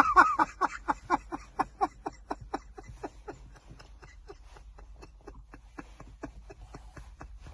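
Horse hooves clip-clopping in an even rhythm, about five beats a second, growing steadily fainter as if riding away.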